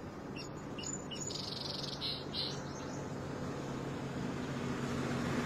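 A few short, high bird chirps in the first couple of seconds over a steady low hum and hiss.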